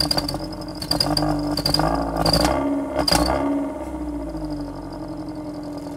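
Timor DOHC car's engine with a turbo-whistle fitted in the exhaust tip, revved up about a second in with two peaks, the whistle tone rising with the revs, then dropping back to a steady idle.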